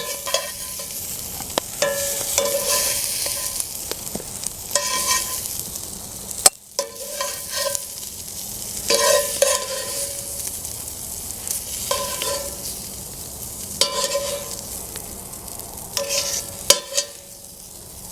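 Brussels sprouts sizzling in a hot cast iron skillet as they are scooped out with a metal utensil. Short scrapes and clinks that ring briefly come every second or two over the steady sizzle.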